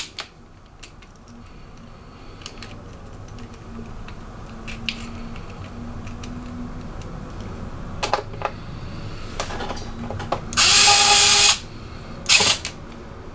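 Electric screwdriver running in short bursts on the laptop's small screws: one burst of about a second, then a brief one just after. Before that, light clicks and handling of the laptop's parts.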